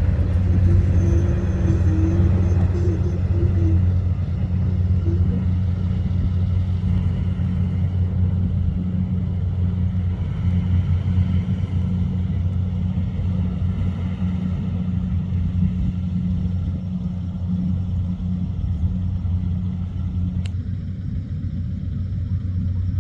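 Rice combine harvester's engine running steadily under load: a loud, even, deep drone with a low hum, with a single sharp click near the end.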